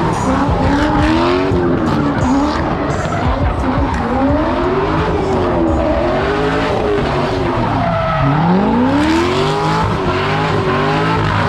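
A car doing donuts: its engine revs up and down over and over while the spinning tires skid and squeal. About eight seconds in the revs drop low, then climb back.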